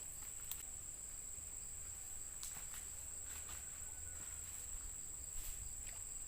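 Insects singing a steady, high-pitched, unbroken tone, with a few light clicks and a low rumble underneath.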